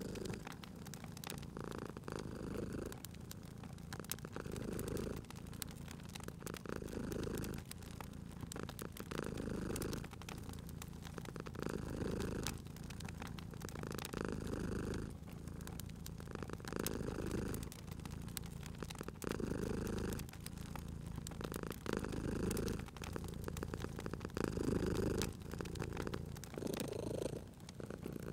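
Domestic cat purring steadily, swelling and easing with each breath about every two to three seconds, over the light crackle and snap of a wood fire.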